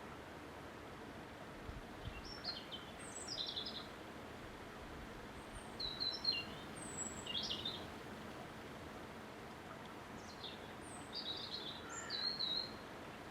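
A songbird singing three short phrases of quick high chirping notes, a few seconds apart, over a steady background hiss.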